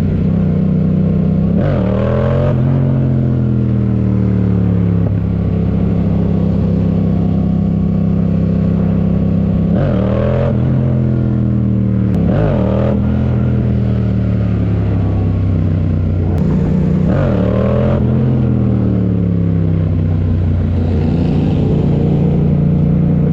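Motorcycle engine running steadily, with four quick throttle blips, each rising sharply and falling back.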